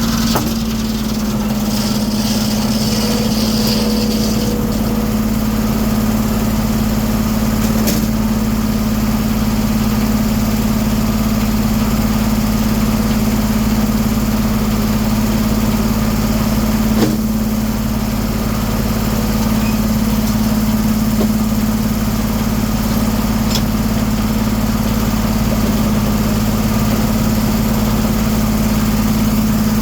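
1907 American circular sawmill running at a steady speed, its power unit and spinning saw making an even hum, with a single sharp knock about halfway through.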